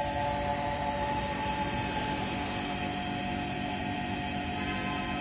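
Vacuum pump running steadily while drawing vacuum on a sealed sigma mixer chamber: a constant hum with a few steady whining tones.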